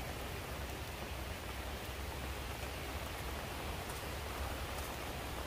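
Light drizzle falling on a flooded rice field: a steady, even hiss of rain with a low rumble underneath.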